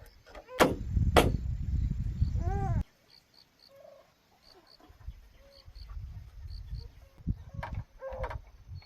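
Two sharp knocks over a low rumble that cuts off abruptly, with a hen clucking once before the cut. Faint high chirps and scattered light knocks follow.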